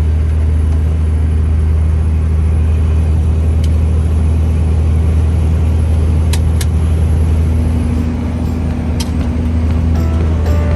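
Heavy truck's diesel engine running steadily under load, a deep, even drone heard from inside the cab, with a few sharp clicks partway through.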